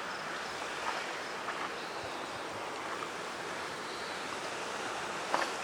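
Steady rushing of a creek running full and fast after recent rain.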